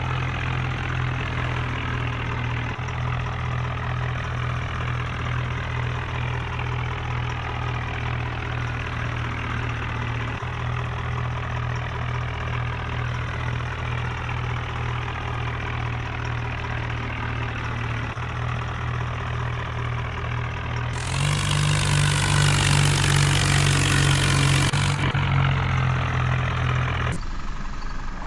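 A steady engine sound at idle, louder and brighter for a few seconds near the end, then changing abruptly.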